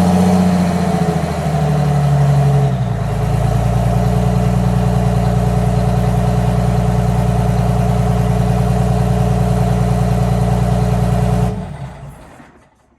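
Detroit Diesel 6V92 TA two-stroke V6 diesel running, dropping from higher revs to a steady idle about three seconds in. It is shut off near the end and winds down to a stop.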